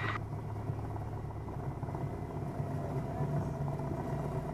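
1977 Cessna 172N's four-cylinder Lycoming engine and propeller running steadily at low taxi power, a constant low hum heard from inside the cabin.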